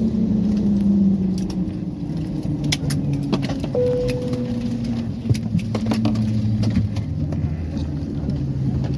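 Cabin hum of an Airbus A320neo at the gate, its engines running down with the low tones sagging in pitch over the first couple of seconds. Scattered metallic clicks and rattles run through it, and a single soft chime rings and fades about four seconds in.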